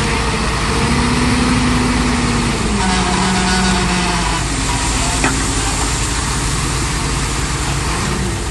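Heavy diesel engine of earth-moving machinery running steadily.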